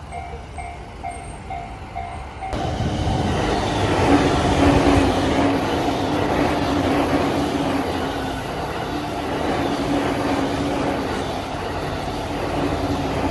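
Japanese level-crossing warning bell ringing in an even, repeating pulse. After about two and a half seconds a train passes close by, building quickly and staying loud, with a steady hum under the wheel and rail noise.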